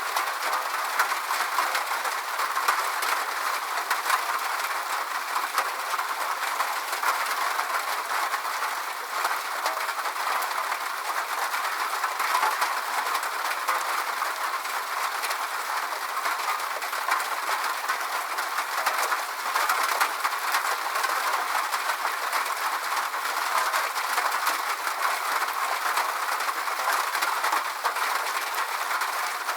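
Steady rainfall, an even dense patter of drops with no change in strength.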